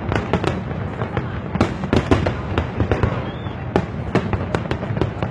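Fireworks bursting in a rapid, irregular string of sharp bangs, several a second, over a continuous low rumble of overlapping explosions.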